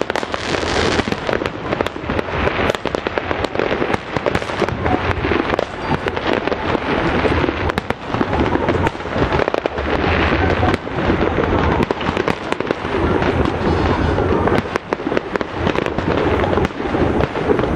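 Aerial fireworks going off in rapid succession: a dense, continuous stream of bangs and crackles with no pause.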